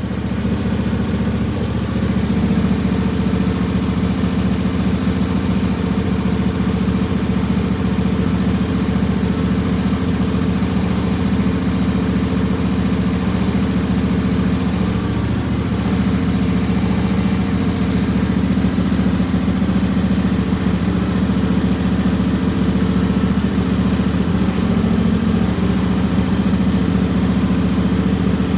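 Lawn tractor's small gasoline engine running steadily at a constant speed, warm and freshly restarted.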